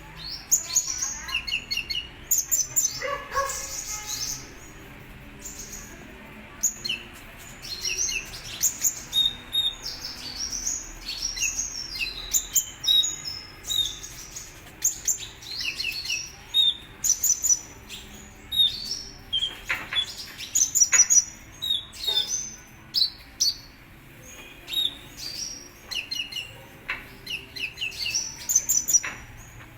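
Sunbird (the Indonesian 'kolibri ninja') singing a fast, high-pitched twittering song of short sharp chirps in rapid clusters, with brief pauses between phrases.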